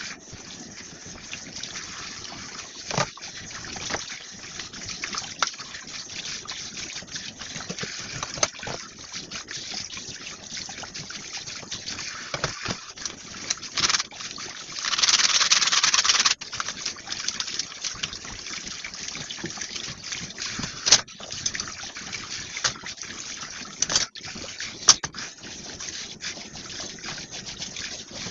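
Kitchen tap water running steadily while dishes are hand-washed, with frequent short clinks and knocks of dishware and a louder gush of water for a second or two about fifteen seconds in.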